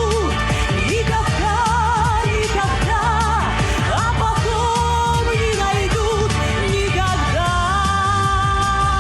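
A woman singing a pop song over accompaniment with a steady beat, her voice wavering with vibrato on sustained notes, moving into one long held note about seven seconds in.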